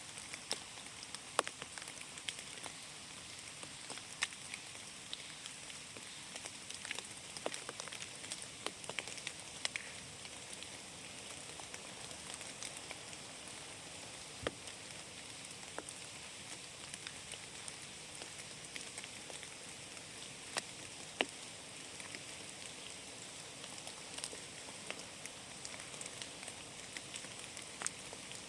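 Rain falling on a forest canopy: a steady soft hiss with irregular individual drops ticking on leaves, a few of them louder and closer.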